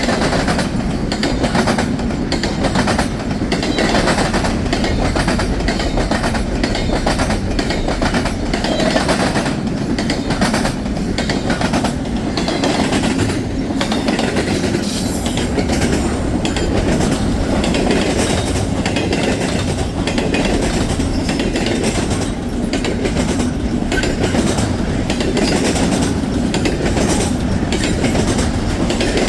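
Freight train rolling steadily past, a continuous rumble of cars with frequent wheel clicks over the rail joints.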